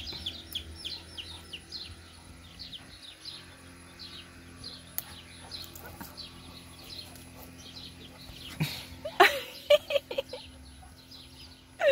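Small birds chirping rapidly, several short high chirps a second. Around nine to ten seconds in come a few loud, sharp calls, from the broody hen squaring up to the dog.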